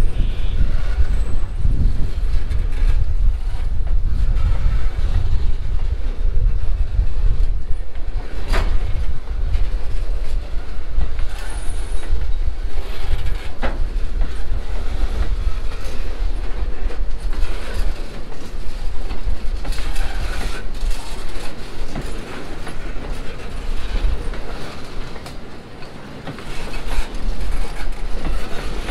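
Subway train rolling on the tracks: a steady low rumble with clickety-clack over the rails, and a few sharp clanks, the loudest about eight and a half seconds in and another near fourteen seconds. The rumble eases briefly near the end, then swells again.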